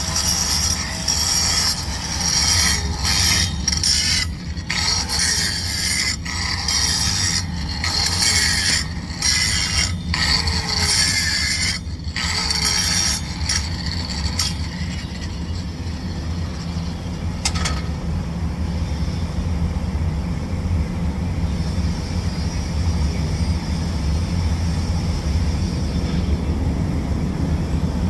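TIG welding arc on a pipe root pass: a steady electrical hum under a crackling hiss. The hiss keeps breaking off and starting again in the first half, then settles quieter and steadier from about fourteen seconds in.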